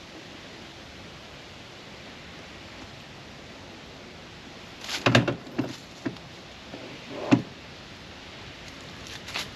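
Steady hiss, then a quick cluster of knocks and thumps about five seconds in, one more sharp knock a couple of seconds later, and a few faint knocks near the end.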